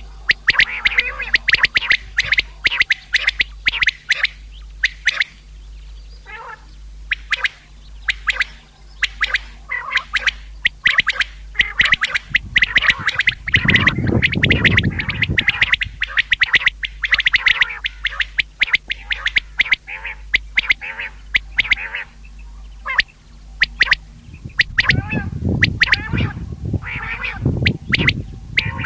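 Common quail calling over and over in quick, sharp notes. A low rumbling noise comes in twice, around the middle and near the end.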